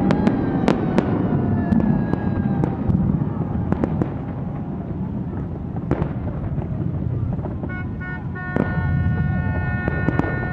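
Fireworks going off in a series of sharp bangs over a continuous low rumble. From about three quarters of the way in, a long steady horn-like tone sounds, with a brief break shortly after it starts.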